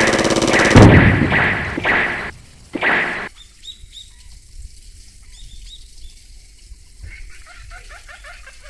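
Ducks scuffling on a pond: a loud burst of wings flapping and water splashing for about two seconds, a second short splash around three seconds in, then quieter duck calls, with a quick run of calls near the end.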